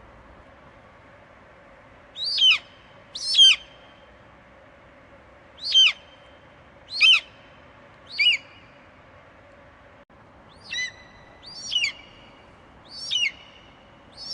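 Eagle screeching: a series of about nine short calls, each sweeping quickly down in pitch, spaced roughly a second or so apart and sometimes in close pairs, over a faint steady background noise.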